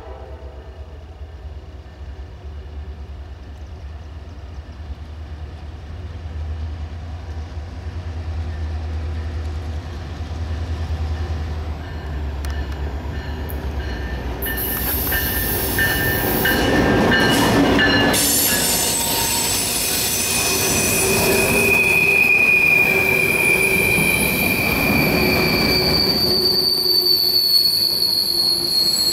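CSX freight train led by diesel locomotives: the engines' low rumble grows as they approach and pass a little past halfway. The cars then roll by on the curve, their steel wheels squealing in several high, steady tones.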